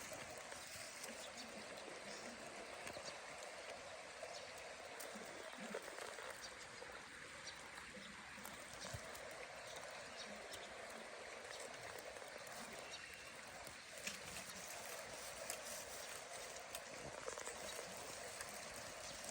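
Creek water running steadily, with faint scattered high ticks.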